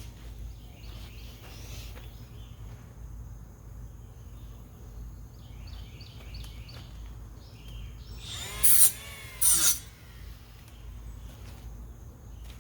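A power tool run in two short bursts about a second apart, its pitch bending as it speeds up and slows down, over a steady low hum.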